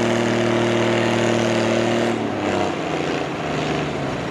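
Pulling tractor's engine running at a steady pitch, then dropping off about two seconds in and giving way to a rougher, lower running sound.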